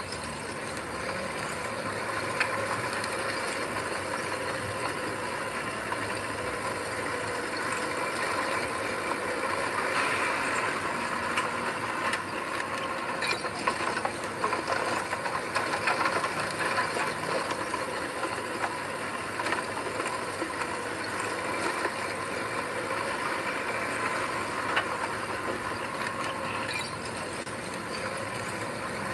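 Heavy earthmoving machine running steadily, with a continuous metallic clatter and rattle over the engine.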